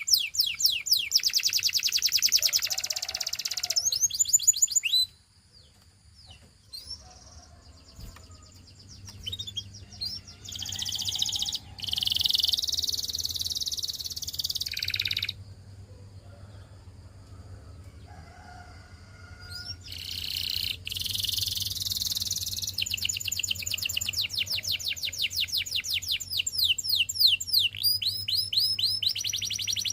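Canary singing in bouts of fast, high trills and rolling repeated notes, with short pauses between phrases near the start and the middle.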